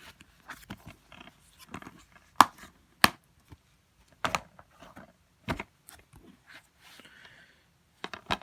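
Handling noises: a string of scattered clicks and taps with light rustling, the two sharpest clicks about two and a half and three seconds in.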